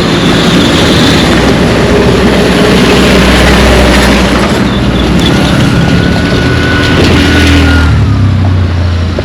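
A motor vehicle's engine running close by, loudest through the middle and easing off near the end, with a thin whine partway through, over a steady noisy hiss.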